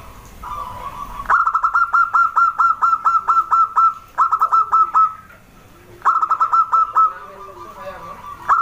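Zebra dove (perkutut) calling: runs of rapid, clipped, repeated notes, about six a second, broken by short pauses into three or four phrases.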